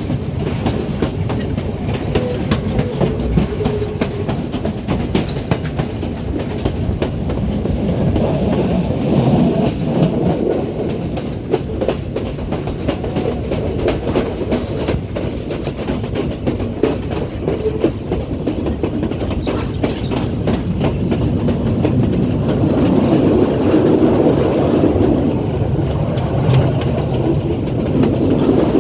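Passenger train running along the line: a steady rumble with the clickety-clack of carriage wheels over rail joints, swelling louder about a third of the way in and again near the end.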